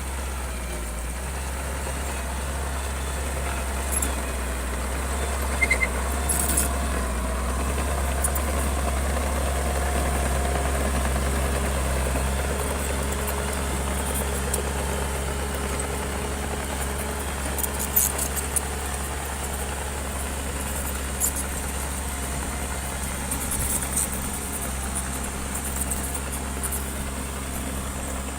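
Bulldozer engine running steadily with a deep, low drone, and a few short, sharp clicks scattered through it.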